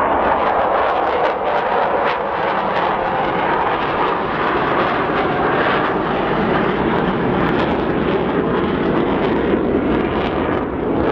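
Avro Vulcan jet bomber's four Rolls-Royce Olympus turbojets running in flight, a loud, steady jet noise with no pauses.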